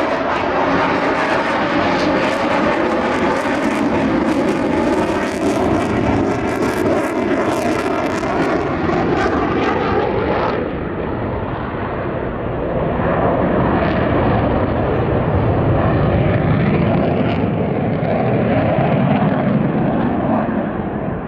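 F-22 Raptor's twin Pratt & Whitney F119 turbofan engines running loud during its airshow display, a steady jet roar with a ragged crackle for the first half that turns duller after about ten seconds.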